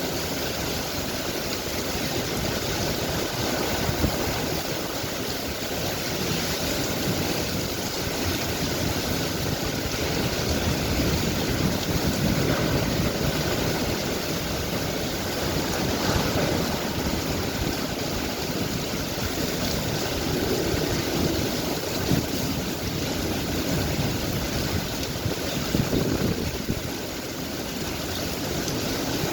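Heavy thunderstorm rain pouring steadily, with gusts of wind rising and falling.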